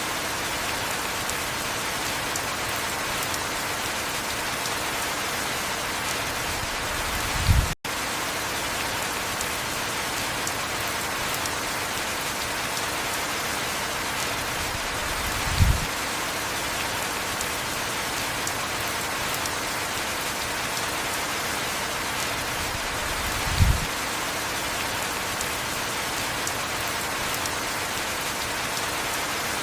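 Steady heavy rain, an even hiss of falling drops. A short low thump comes about every eight seconds, and just after the first one the sound cuts out for an instant.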